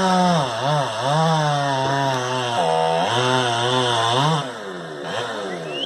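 Chainsaw running at high revs, its pitch rising and falling repeatedly as the throttle is worked. About four and a half seconds in it drops to a quieter, lower run.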